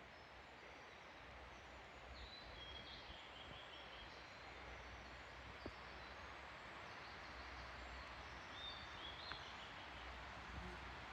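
Faint birdsong: a few short chirps and trills over a soft, even background hiss.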